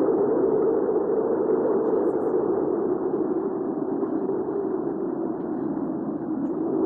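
Recorded hurricane wind ambience: a steady, muffled, low rushing of wind that eases slightly a little past halfway and swells again near the end.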